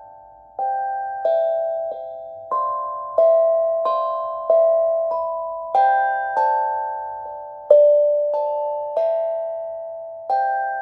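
A plucked tuned instrument playing a slow, even melody of single notes, about three notes every two seconds, each struck sharply and left to ring and fade, the pitch stepping up and down from note to note.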